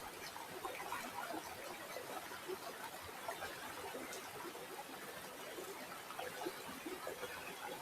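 Flowing river water, a steady babble of many small bubbling, trickling sounds.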